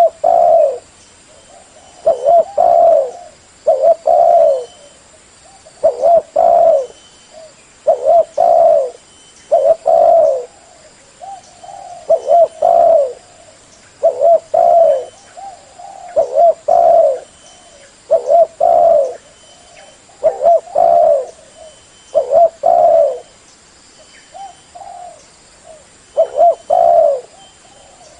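Spotted dove cooing over and over, a short phrase of a few low coos repeated about every two seconds.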